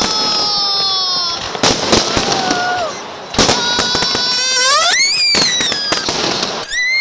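Fireworks going off: a rapid string of sharp bangs and crackles, overlaid by several whistling shells, one gliding slowly down in pitch near the start and another rising steeply about five seconds in.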